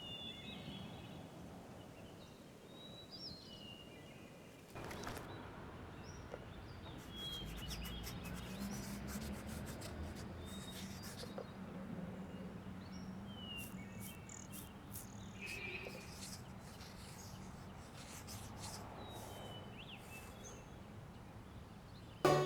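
Nature ambience: scattered short bird chirps over a steady low background hum, with clusters of brief light clicks around the middle.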